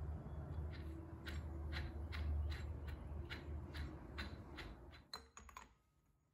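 Ratchet wrench clicking at a slow, even pace, about two clicks a second, as the axle nut on a Dana 30 front hub is tightened, over a low steady hum. A few sharper clicks come about five seconds in, then the sound falls away.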